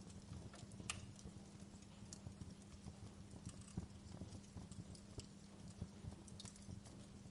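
Wood fire crackling in a fireplace: irregular small pops and snaps over a soft low rumble and a faint steady hum.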